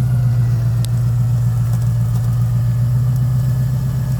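Recovery truck's engine idling steadily, with a loud, even low hum.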